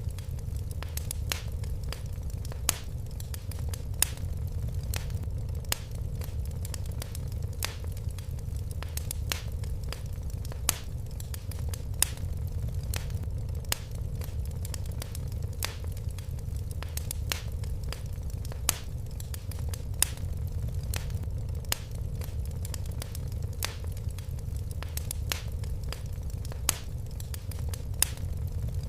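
Wood fire crackling in a fireplace: irregular sharp pops and snaps, several a second with louder ones every second or two, over a steady low rumble of the burning fire.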